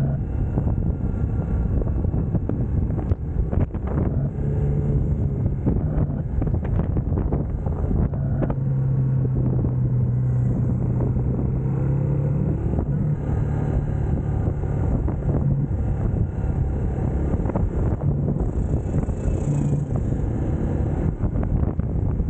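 UM Scrambler X motorcycle engine running at a fairly steady pitch while riding, under heavy wind rush on the helmet-mounted microphone.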